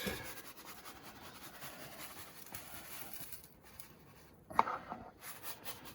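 Faint scratching and rustling of gritty pay dirt being added to a gold pan, with a brief louder noise about four and a half seconds in.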